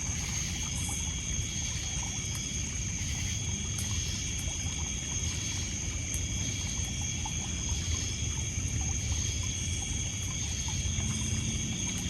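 Night lakeshore ambience: a steady high chorus of crickets and other insects over the low wash of small waves lapping on a pebble beach, with a few faint crackles from a wood campfire.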